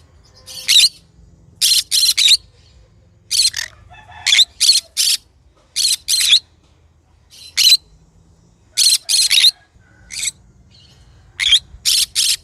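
Green conure calling: short, sharp, high-pitched screeches, mostly in quick pairs or threes, repeated every second or so.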